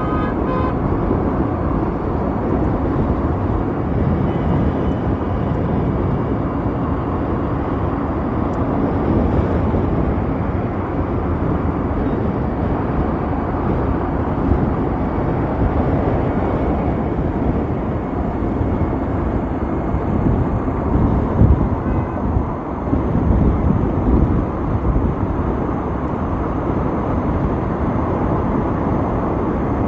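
Wind buffeting the microphone of a rider on an Ather 450X electric scooter at riding speed, a steady, low rumbling rush with gusts, mixed with road and traffic noise.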